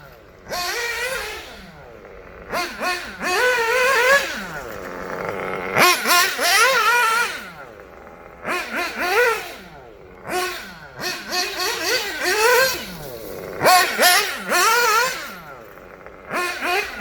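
Small nitro engine of a 1/8-scale Kyosho Inferno Neo 2.0 buggy, running through a Dynamite 053 tuned pipe. It revs up and drops back again and again as the buggy is driven, the pitch climbing and falling with each burst of throttle and easing off in between.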